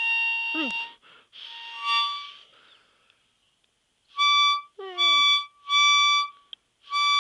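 Harmonica blown in held chords, then after a short pause in a run of quick separate blows. A dog joins in with brief falling howls, once near the start and again about five seconds in.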